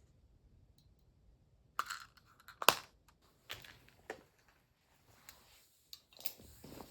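Scattered kitchen handling noises: a few short clicks and crinkly rustles, with one sharp louder click about two and a half seconds in.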